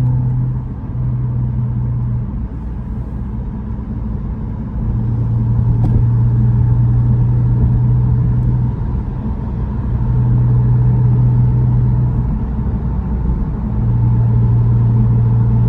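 Porsche 718 Spyder RS flat-six engine droning at a steady highway cruise, heard from inside the cabin. The drone eases off and comes back four or five times as the throttle is lifted and reapplied, over a steady noise of tyres on a wet road.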